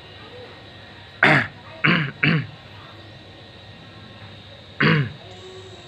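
A pet bird giving short, human-like coughs: one about a second in, a quick pair a moment later, and one more near the end.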